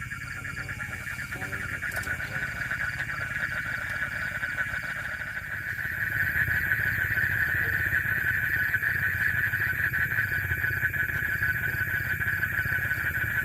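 A steady, rapidly pulsing chorus of night insects, with a thin high whine joining about five seconds in.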